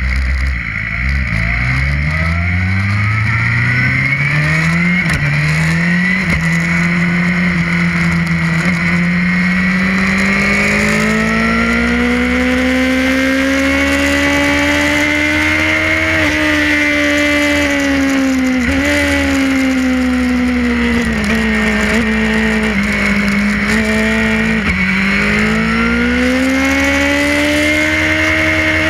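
Suzuki GSX-R racing motorcycle engine recorded on board, accelerating hard from low revs with quick upshifts through the gears in the first few seconds. It then pulls to high revs, with several short drops in pitch as it shifts down and back up, and climbs again near the end.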